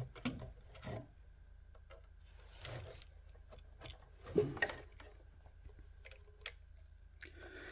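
Faint handling noises of small electronic parts and wiring: scattered light clicks and taps with a soft rustle, and one slightly louder tap a little over four seconds in.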